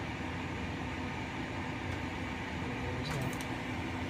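Steady low hum of a car engine idling, heard from inside the car, with a few faint clicks about three seconds in.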